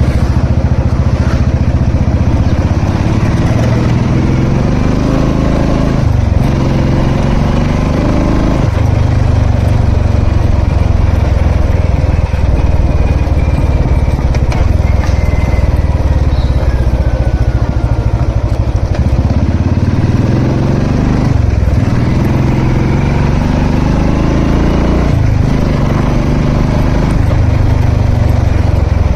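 Royal Enfield Classic 350's single-cylinder engine pulling under way: the revs climb steadily, then drop back sharply at each gear change, four times.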